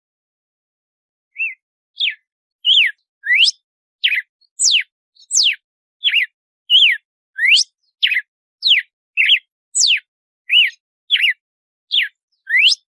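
Red-cowled cardinal (galo-de-campina) singing its 'açoite' song. It is a long run of short, clear whistled notes, some sweeping up and some sweeping down, about two a second, starting about a second and a half in.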